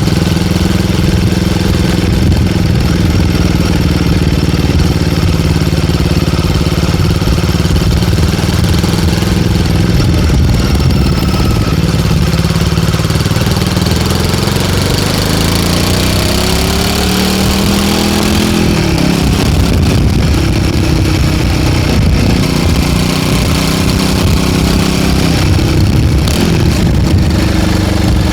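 Royal Enfield Guerrilla 450's single-cylinder engine exhaling through an MTG link pipe fitted in place of the stock catalytic converter box, running steadily. About halfway through the revs rise for a few seconds and then fall back.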